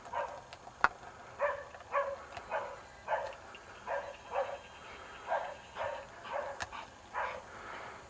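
A dog barking over and over, about two barks a second, with a sharp click about a second in.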